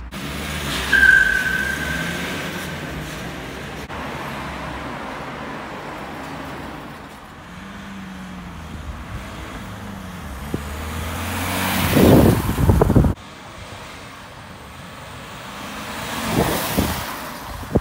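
BMW E90 318d four-cylinder diesel car driving, its engine hum mixed with road and traffic noise. A brief high whistle sounds about a second in, and there are two louder whooshing swells: the first cuts off suddenly about two-thirds of the way through, and the second comes near the end.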